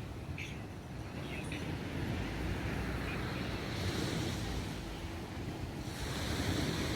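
Sea waves breaking and washing up the beach, surging about four seconds in and again near the end, with wind rumbling on the microphone.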